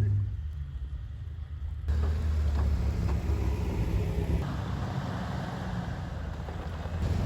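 A Jeep's engine running with a steady low hum, the sound shifting and growing a little louder about two seconds in.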